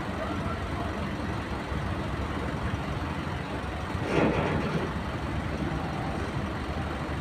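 Steady rumble of a heavy truck's diesel engine as the truck manoeuvres into place on a ferry's vehicle deck, with one brief louder sound about four seconds in.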